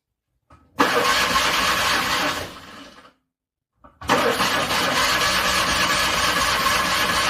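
A cold car engine cranking on its starter in two tries: a short burst of cranking about a second in that dies away, then a longer spell from about four seconds in. The engine is struggling to start in freezing cold.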